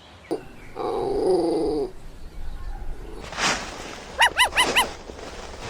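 Small puppy vocalizing: a wavering whining cry of about a second, then four quick high-pitched yips in a row near the end.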